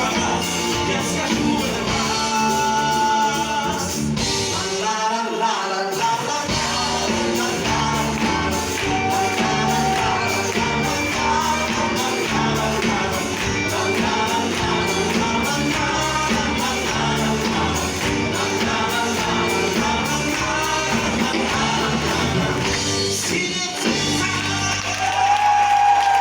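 Live pop band playing the closing section of a song with a steady beat and singing. The bass drops out briefly about five seconds in, and the song ends near the close on a held final note.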